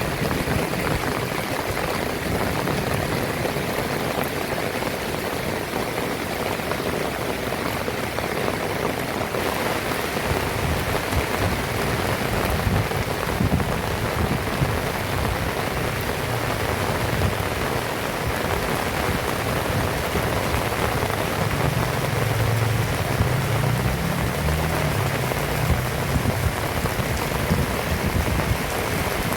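Heavy rain falling steadily on surfaces, a dense even hiss of drops. A low rumble swells for a few seconds about two-thirds of the way through.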